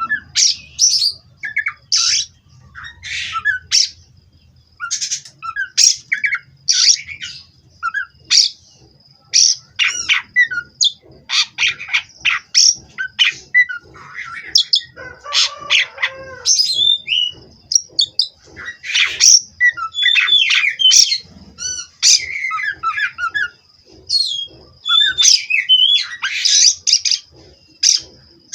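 Oriental magpie-robin (kacer) singing in rapid, varied bursts of chirps, whistled sweeps and harsh squawky notes.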